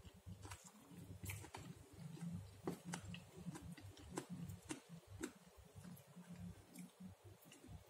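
Faint close-up chewing of a napa cabbage pancake, with irregular wet mouth clicks and smacks over a low pulsing rumble from the jaw.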